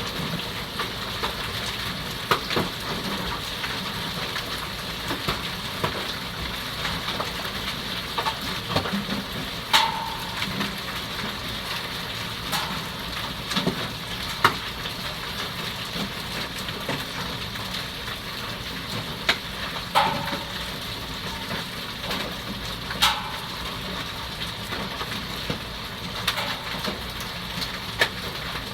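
Hailstorm: a steady hiss of hail and rain falling, with sharp hailstone impacts every second or two, the louder ones ringing briefly.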